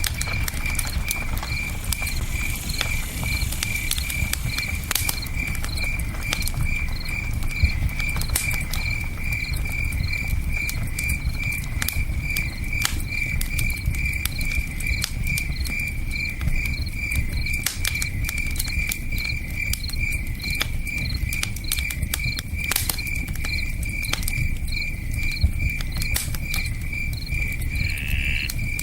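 Campfire crackling with scattered sharp pops over a steady low rush of river water, while a cricket chirps steadily at about two chirps a second.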